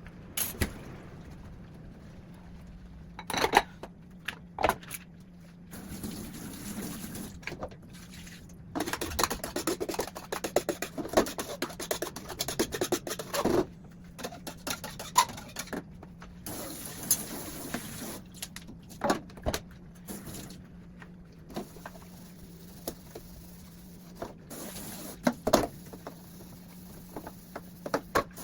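Kitchen clatter: scattered knocks and clinks of dishes and utensils, with a run of rapid scraping or scrubbing strokes around ten seconds in, over a steady low hum.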